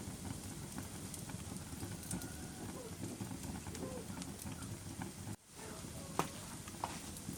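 Wood fire burning in a fireplace: a steady low rumble of flames with scattered sharp crackles and pops, and a few faint brief whistles. The sound cuts out for a split second about five seconds in.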